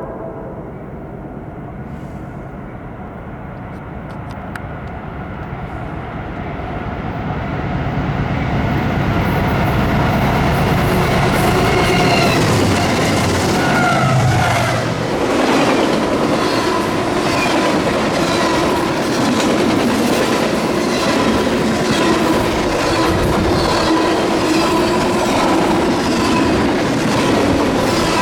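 Norfolk Southern eastbound intermodal freight train passing at speed: the locomotives grow steadily louder over the first ten seconds or so, go by with a drop in pitch about halfway through, and then the cars follow with a steady rush of wind and clickety-clack of the wheels on the rail joints.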